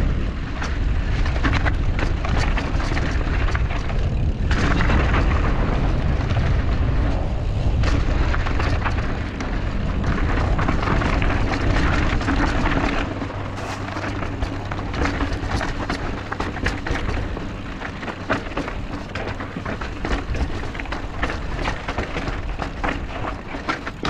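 Mountain bike riding down a rocky trail as heard from a GoPro: wind buffeting the microphone with a heavy rumble, over the constant clatter and rattle of the bike and tyres on loose rock. About halfway through the wind rumble drops away, leaving the rattling and crunching of the tyres.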